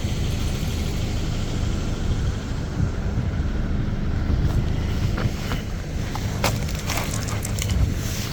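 Steady low rumble of wind on the microphone. From about five seconds in, a few sharp crunches and clicks are heard, like steps or scraping on ice.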